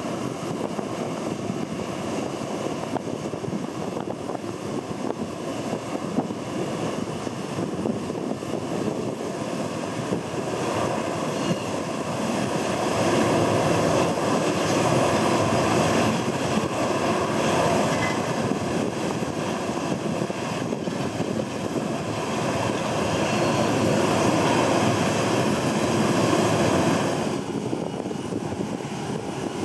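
Airliner engines running, swelling louder through the middle and easing back near the end, mixed with heavy wind buffeting the microphone.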